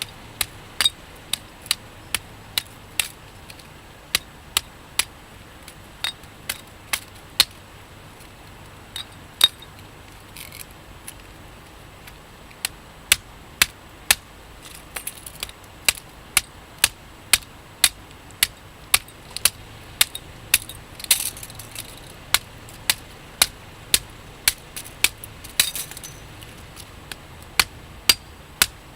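Repeated sharp metal-on-metal strikes of a hatchet chopping at a microwave oven transformer to free its copper windings, about one to two blows a second with a high clink on each.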